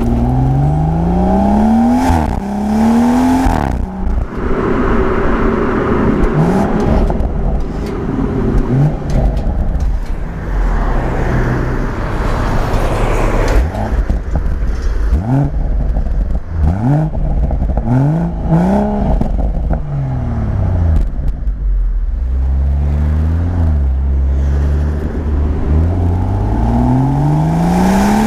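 BMW M140i's turbocharged straight-six engine and exhaust under hard driving. The revs climb again and again and drop sharply at each gear change, with a few sharp cracks in between.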